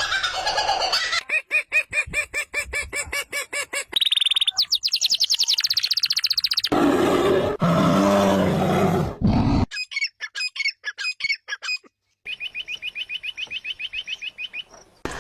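A run of different bird calls cut one after another: fast repeated chirping notes and rapid high trills, with a lower, rougher call in the middle, each breaking off abruptly.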